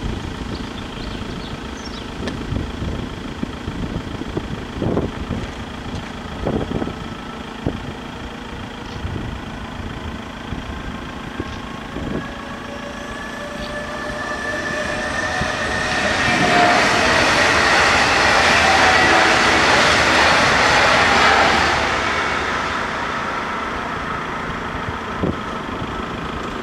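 A train passing the closed level crossing: its running noise builds from about halfway, stays at its loudest for some five seconds as a rushing hiss with gliding whining tones, then fades away.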